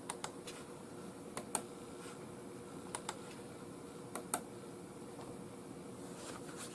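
Scattered light clicks from a computer mouse and keyboard in use, mostly in quick pairs, with a faint steady hum beneath.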